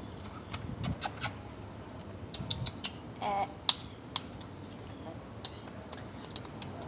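A dog playing with a toy: scattered light clicks and taps, with a brief pitched squeak about three seconds in.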